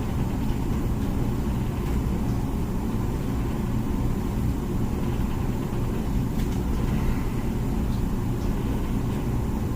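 Comfee dishwasher running mid-cycle: a steady low rumble from the wash pump, with a few faint clicks.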